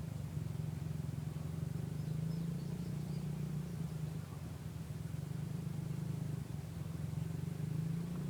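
Honda CRF50 minibike's small single-cylinder four-stroke engine running at a steady low speed.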